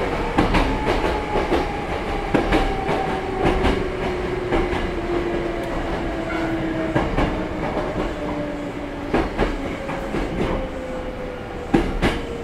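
Running sound inside a Hankyu 6300 series electric train: a steady rumble with clicks of the wheels over rail joints. The motor whine falls slowly in pitch as the train slows.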